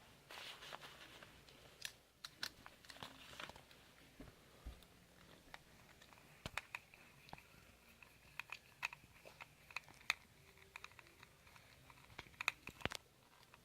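Faint handling noises of a plastic toy remote control: scattered sharp clicks and light rustling, coming more often in the second half.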